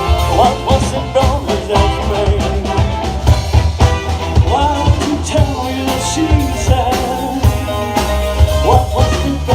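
Live rock band playing loudly, with drums striking a steady beat under pitched lines that bend up and down.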